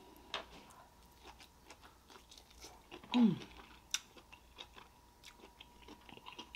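Close-miked chewing of lobster meat: many small wet clicks and mouth smacks. About three seconds in, a short hummed 'mmm' that falls in pitch.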